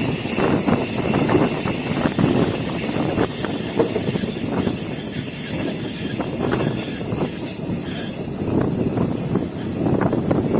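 State Railway of Thailand passenger carriage under way: a rumble with irregular knocks and rattles from the wheels on the track, under a steady high whine.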